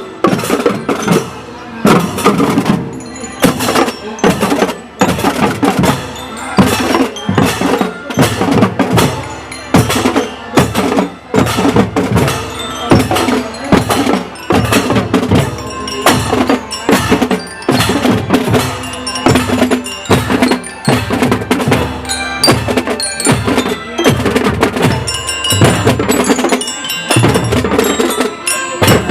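Children's marching drum band playing: drums beat a fast, steady rhythm of strikes, with a pitched melody held over them.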